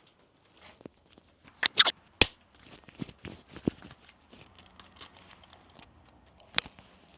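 Workshop handling noises: a quick burst of rustling or crinkling about two seconds in, followed by a sharp click, with scattered lighter clicks and knocks of small parts and tools.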